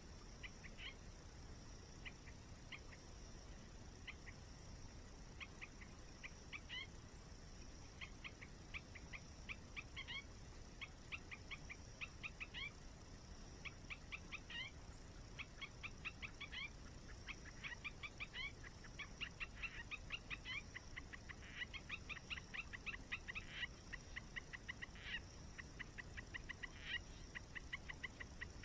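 Runs of short, clicking bird calls, sparse at first and coming faster and denser toward the end, over a faint steady low rush and a thin high steady hiss.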